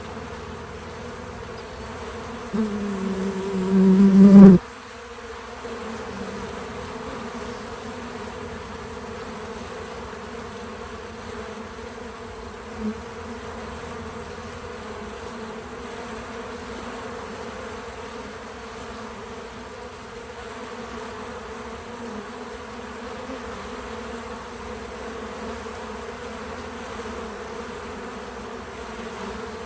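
Honey bees buzzing at a feeder, a steady hum of many wings. From about two and a half seconds in, one bee buzzes loud and close, its pitch rising slightly, then stops abruptly about four and a half seconds in.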